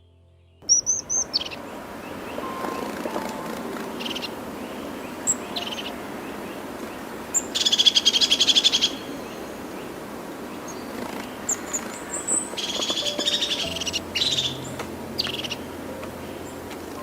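Wild birds calling: scattered short high chirps and two loud, rapid chattering calls, one about seven seconds in and one about twelve seconds in, over a steady background hiss.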